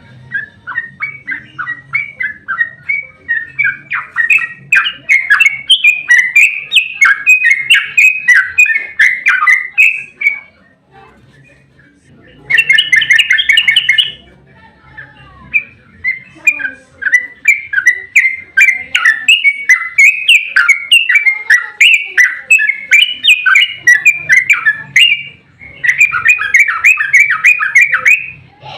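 Yellow-vented bulbul (trucukan) singing long, rapid runs of chattering notes. A run builds in loudness over the first few seconds, breaks off about ten seconds in, and after a short dense burst a second long run follows, ending in another dense flurry.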